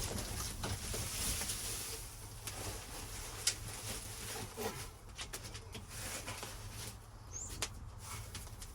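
Rustling through dry leaf litter with scattered snaps and clicks of twigs and sticks, as if someone is moving about gathering firewood.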